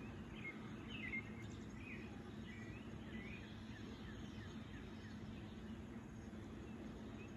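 Outdoor ambience of birds chirping, with several short chirps in the first half and none after. A steady low background noise runs under them.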